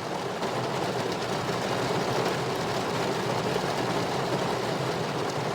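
Rain falling steadily, a little louder from about a second in.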